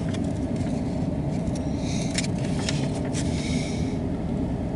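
MARC commuter train running past, a steady low rumble with a few sharp clicks and a faint higher squeal from about a second and a half in.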